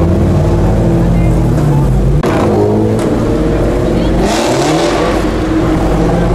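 Car engines running loudly, with the sound changing abruptly about two seconds in and a short rise in revs about four to five seconds in.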